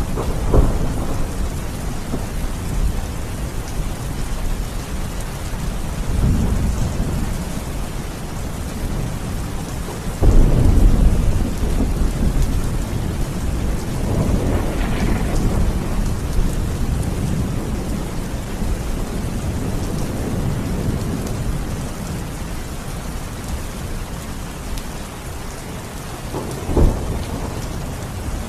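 Steady heavy rain with rolls of thunder: a crack near the start, a loud low rumble that breaks in suddenly about ten seconds in and slowly fades, a softer rumble a few seconds later, and another sharp crack near the end.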